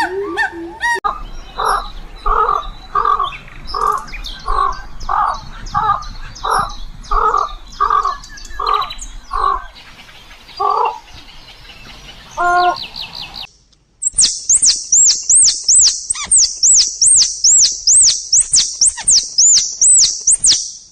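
Bird calls from several different clips in sequence. First a harsh call repeated about one to two times a second for some ten seconds, then, after a brief break, rapid high-pitched chirps about two to three a second.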